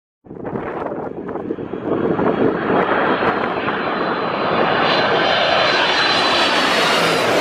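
Jet airliner passing low overhead on final approach: a loud engine rush that starts suddenly and builds over the first couple of seconds, with a steady high fan whine over it from about four seconds in.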